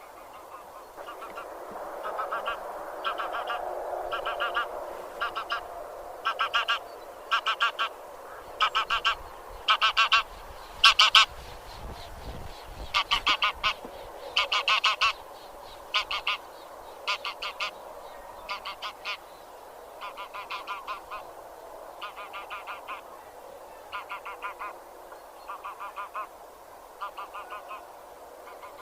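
Geese of the genus Anser honking: groups of short, rapid honks about once a second, loudest around the middle and fading toward the end.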